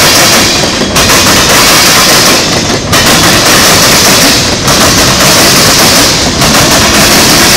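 Freight train tank cars passing close by, their steel wheels clattering and banging over rail crossings and joints in a loud, continuous din. Brief lulls come about every two seconds as the car ends go by.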